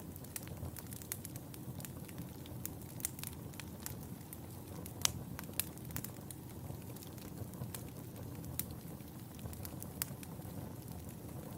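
Fireplace fire crackling: a steady low rumble of burning with frequent irregular sharp pops and snaps. A few louder pops come around the middle and near the end.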